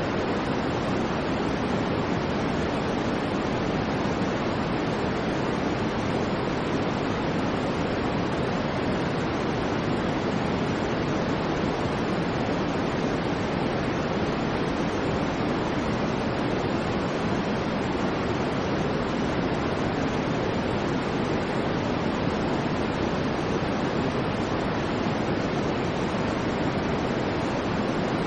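Steady white noise for sleep: an even, unchanging hiss, fuller in the lower pitches, with no swells or breaks.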